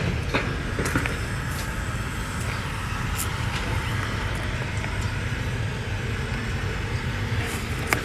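Diesel engine of a Caterpillar M322F wheeled excavator running steadily, with a few scattered knocks and a sharper clank near the end.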